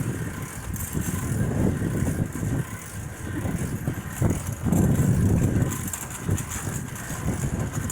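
Wind buffeting the microphone while riding a bicycle: an irregular, gusting low rumble.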